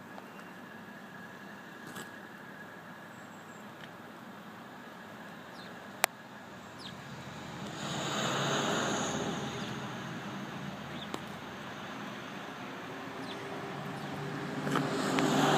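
A passing road vehicle: a broad noise that swells and fades over about three seconds midway, with a single sharp click about six seconds in, over a low background hum.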